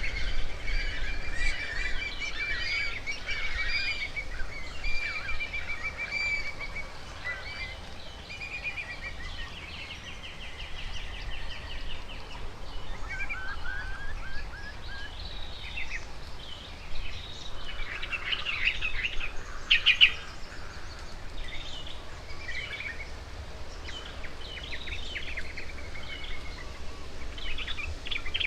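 Several wild birds singing and calling at once: overlapping chirps, rapid trills and short whistled phrases, busiest near the start and again in the second half, over a steady low rumble.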